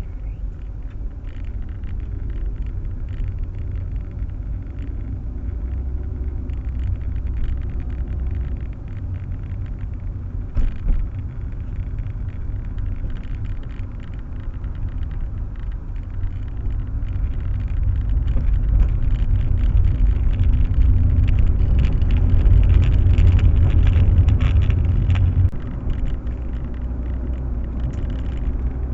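Proton Waja CPS 1.6 driving, its engine and road rumble heard from inside the cabin. The rumble swells louder in the second half and drops back suddenly near the end, with a single knock about eleven seconds in.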